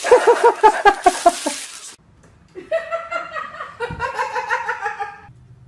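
High-pitched laughter in quick rhythmic pulses, in two bursts: one in the first two seconds, then after a sudden break a second run of laughter that ends about a second before the end.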